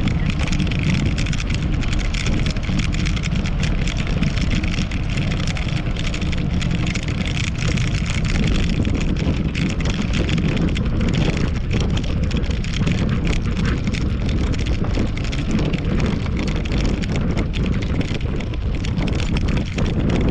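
Wind buffeting a GoPro microphone and road rumble from a moving fixed-gear bicycle, with a steady dense light crackle from vibration over the pavement.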